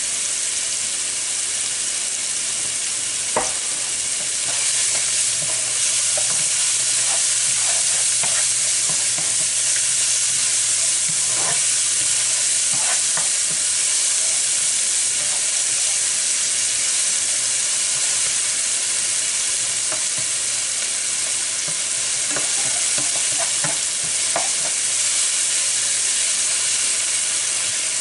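Chopped onions, green onions, hot pepper and garlic sizzling as they fry in a nonstick skillet, with a steady hiss. A spoon stirs them, scraping and tapping against the pan in scattered bursts.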